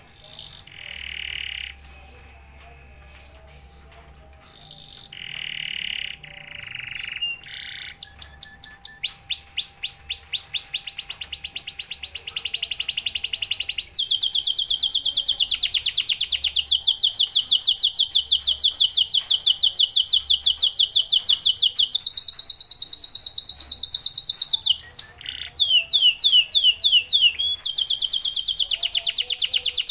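Domestic canary singing. A few short separate phrases come first, then fast trills from about eight seconds in. From about fourteen seconds the song becomes a louder, nearly unbroken rolling trill, with one short break near the end.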